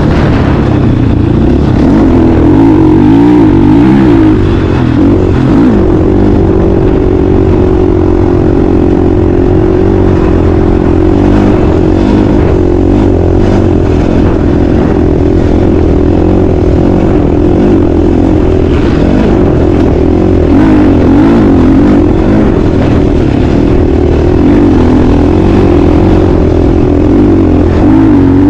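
Motocross dirt bike engine running hard, its pitch rising and falling as the throttle is opened and shut.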